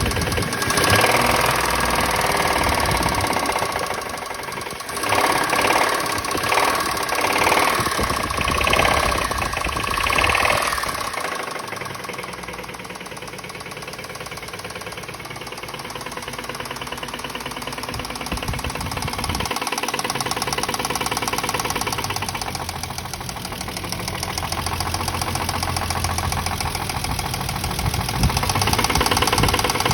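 Toyota Mark II engine running with a rapid knock; the engine note swells and falls several times in the first ten seconds or so, then settles to a steadier idle.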